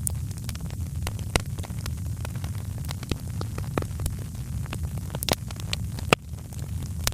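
Wood fire crackling in a fireplace: irregular sharp pops over a steady low rumble of the flames, the loudest pop about six seconds in.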